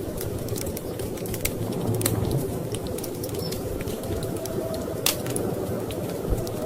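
Wood fire in a fireplace crackling, with scattered sharp pops, one louder about five seconds in, over a steady low rumble of storm wind.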